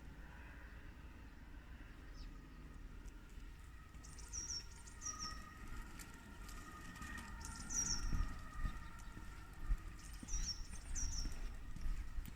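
A small bird chirping outdoors: short, high, falling double chirps that come every few seconds, over a faint low rumble.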